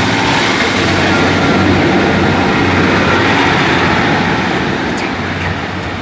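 Class 150 Sprinter diesel multiple unit accelerating away from the platform, its underfloor diesel engines running under power with wheel and rail noise, fading slightly near the end.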